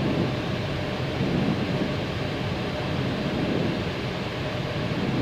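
Airbus A319 cockpit noise on final approach: a steady rush of airflow over the nose with a low rumble underneath, the landing gear down.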